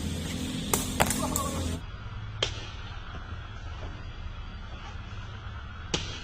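Sharp, separate smacks of a sepak takraw ball being kicked, a few at irregular intervals, over a steady low background hum.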